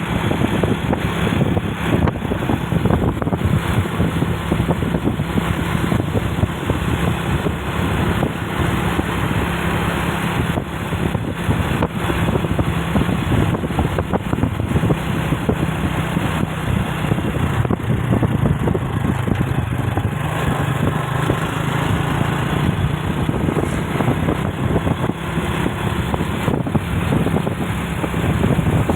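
A motor vehicle's engine runs steadily under road and wind noise while travelling, its pitch dipping and recovering about two-thirds of the way through.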